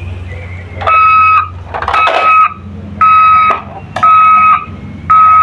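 Electronic beeping from a toy ambulance's sound module: five half-second beeps on one steady high pitch, about one a second, with a brief plastic clatter under the second beep.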